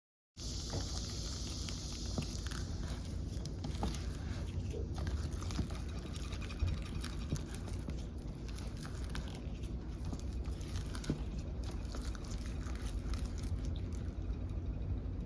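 Small taps, clicks and light knocks of baking tools and ingredients being handled, over a steady low room hum. The sound starts abruptly about half a second in.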